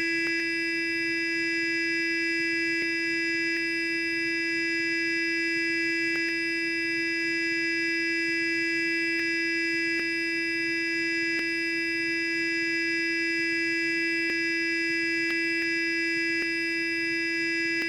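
Electric sonic toothbrush buzzing continuously at one steady pitch, with a few faint clicks now and then.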